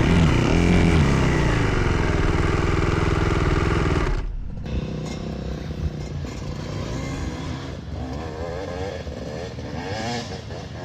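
Dirt bike engine running loud, its pitch dipping and rising as the throttle works, for about four seconds. The sound then drops abruptly to a quieter engine note that wavers up and down.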